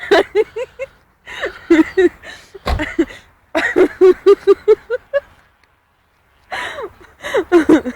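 People laughing in several fits of rapid, pulsed ha-ha bursts with short pauses between them, and a single bump partway through.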